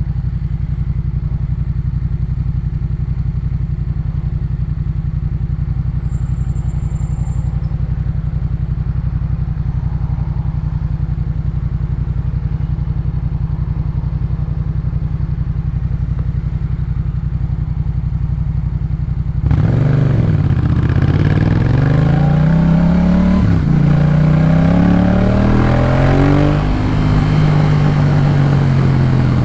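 Yamaha MT-07's parallel-twin engine through a Jeskap K4 full exhaust, running steadily at low revs. About two-thirds of the way through it turns suddenly louder as the revs climb, drop at a gear change, climb again and level off.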